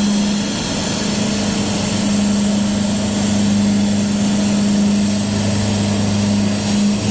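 Steady drone of airliner pushback machinery: a low, even engine hum with a faint high whine above it, unchanging throughout with a brief dip near the end.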